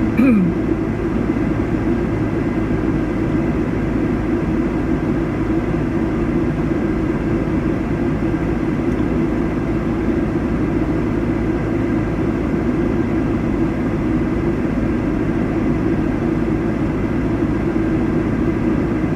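A vehicle engine idling, a steady low drone that does not change.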